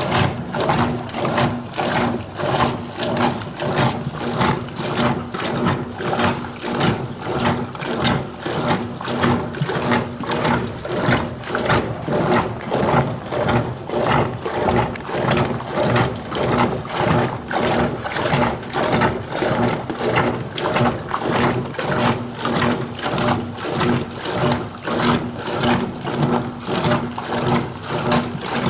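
Top-load washing machine running under a universal control board on its heavy-soil cycle: a steady motor hum with a regular, rhythmic pulse that keeps going without a break.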